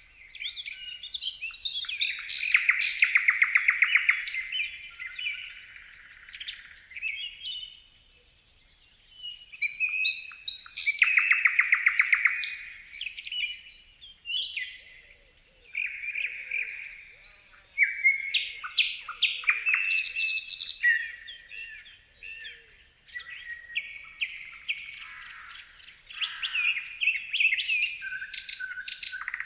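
Songbirds singing and chirping in a run of varied phrases, with fast trilled passages that are loudest about three seconds in and again about eleven seconds in.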